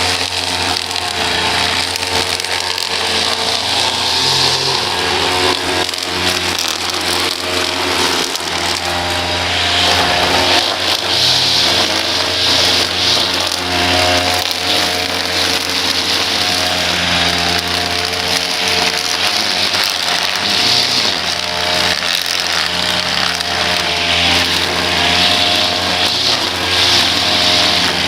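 Small petrol engine of lawn-care equipment running steadily at a fairly constant speed, with a hissing, whirring band over the engine note that swells and eases a little.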